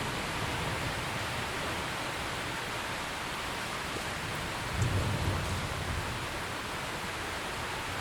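Steady rain falling, with a short low rumble of distant thunder about five seconds in.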